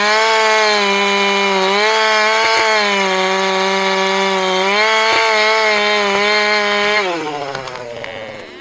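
Two-stroke chainsaw running at full throttle, its pitch dipping slightly a couple of times as it takes load in the cut. Near the end the throttle is let off and the engine winds down.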